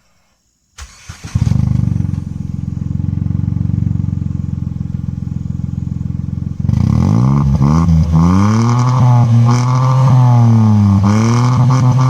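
Datsun GO's three-cylinder engine, breathing through an aftermarket HAVI exhaust with only a muffler, starts about a second in and idles with a deep, dry bass note. From about halfway it is revved in a string of quick blips, the pitch rising and falling with each one.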